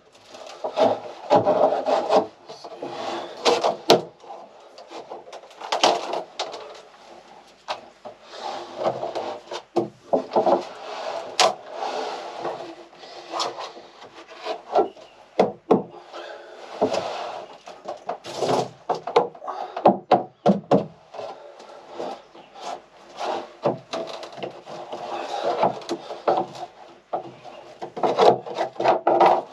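Wood and fibreglass interior fittings of a small sailboat being scraped, pried and broken out, giving irregular scraping strokes broken by many sharp cracks and knocks.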